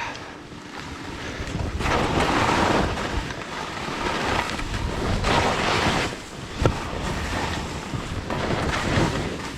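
Wind rushing over a skier's GoPro microphone with the hiss of skis on snow, swelling and easing several times during the run. There is one sharp knock about two thirds of the way through.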